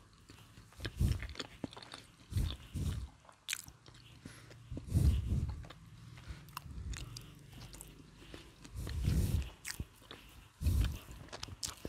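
Close chewing and crunching of crispy fried chicken coating, in irregular bursts every second or two.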